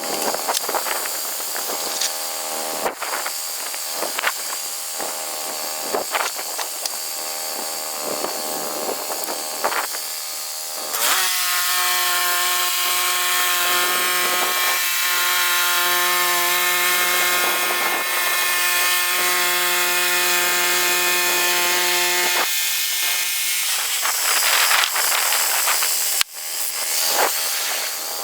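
Chainsaw cutting wood: the engine revs up and down unevenly at first, then runs at a steady high pitch, held at full throttle, from about eleven seconds in until about twenty-two seconds, before dropping back to uneven revving.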